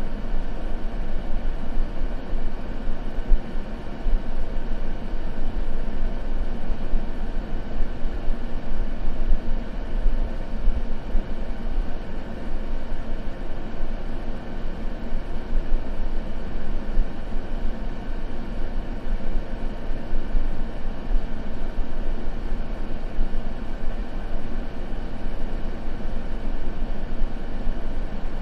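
Continuous steady ambient noise, heavier in the low end than the top, used as a sleep white-noise track. There are no crackles or sudden sounds.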